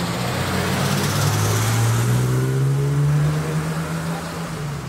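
BMW E30 convertible pulling away, its engine revving up with a steadily rising pitch, then fading as it moves off.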